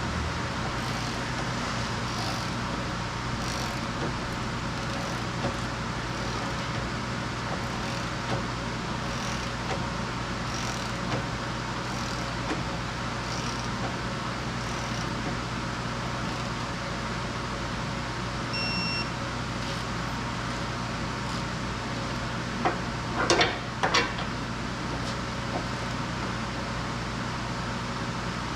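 Steady low mechanical hum of workshop background noise, with faint scattered ticks, a short electronic beep about two-thirds of the way through, and a quick run of sharp metallic knocks a few seconds later.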